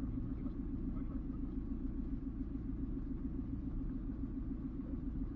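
Off-road 4x4 vehicle's engine running steadily, a low even drone with a fast regular pulse.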